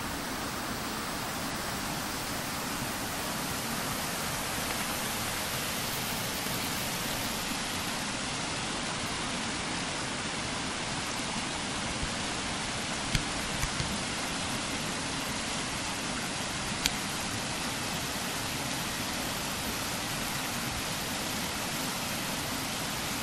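Steady rushing of a mountain stream's flowing water, with a few sharp clicks about halfway through.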